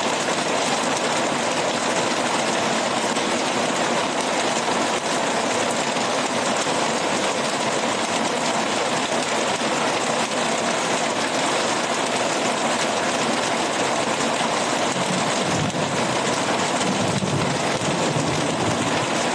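Very heavy rain pouring down, a steady dense hiss; a low rumble joins in about three-quarters of the way through.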